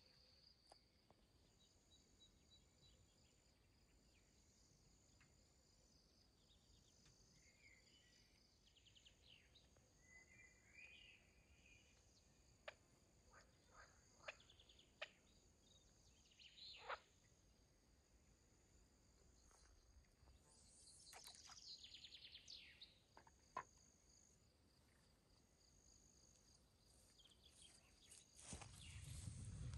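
Very quiet forest ambience: a faint steady insect trill with scattered short bird chirps, and a few soft clicks in the middle. A low rustling noise builds near the end.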